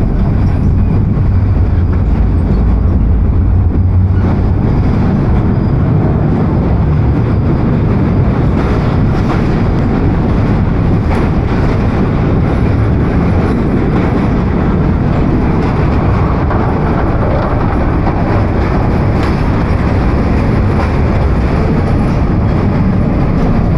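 Bangladesh Railway intercity passenger train running across a steel truss bridge, heard from an open carriage doorway: a steady, loud noise of wheels on the rails.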